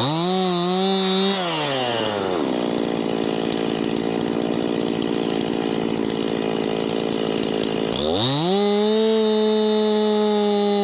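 Two-stroke chainsaw at high revs that drops to a low idle about two seconds in, then climbs back to full throttle about eight seconds in and holds there.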